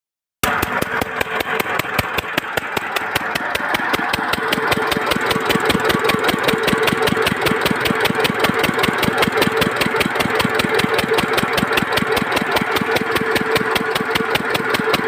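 Lister-type single-cylinder diesel engine driving an irrigation water pump, running steadily with a rapid, even beat of firing strokes; it cuts in abruptly and grows a little louder over the first few seconds before settling.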